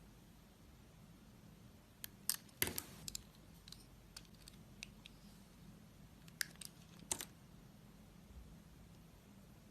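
A knife cutting and scraping a bar of soap: faint, crisp clicks and short scrapes at irregular intervals, with a small cluster about two and a half seconds in and a few more around six to seven seconds.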